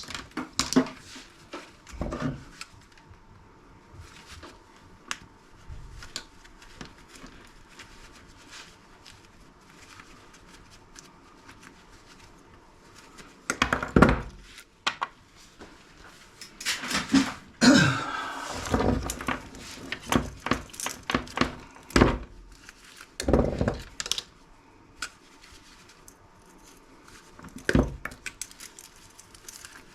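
Scattered knocks, clunks and clatter of scrap parts and hand tools being handled during disassembly. The loudest flurries come about halfway through and again a few seconds later, with lone knocks in between.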